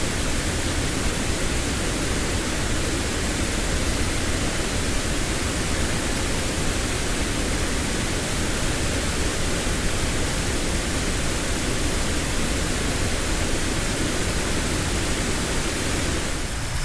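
A waterfall: a steady, dense rush of falling water, unbroken and even throughout. Just before the end it cuts abruptly to a thinner water sound.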